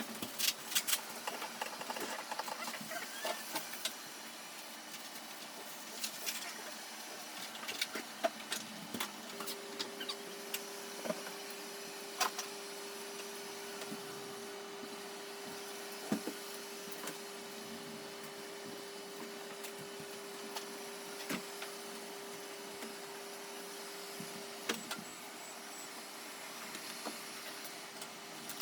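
Robot vacuum cleaner running with a steady motor noise, a hum tone that sets in about a third of the way through and drops out near the end, and scattered light clicks and knocks, densest at the start.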